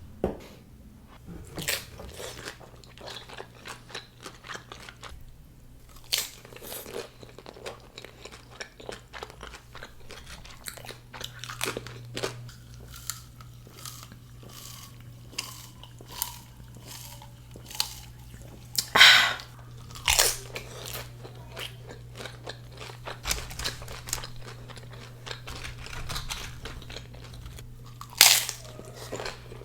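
Close-up crunching and chewing of tortilla-chip nachos, with irregular bites and crackles and a few louder crunches, the loudest about two-thirds of the way through and near the end. A faint steady low hum runs underneath.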